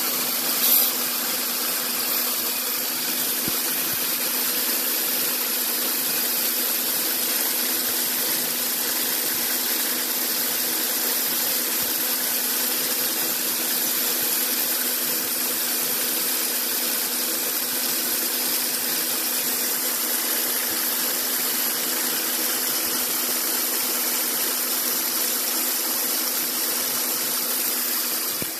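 Jeep Grand Cherokee engine idling, its accessory belt and pulleys turning: a steady, unchanging running sound with a constant hum. One short bump about a second in.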